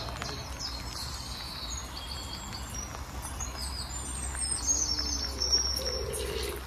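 Small songbirds singing, a running series of short high chirps and trills, over a steady low background rumble.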